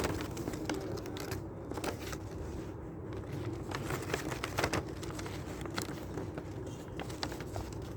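Folded paper being handled and pressed, making scattered light rustles and clicks over a steady low hum.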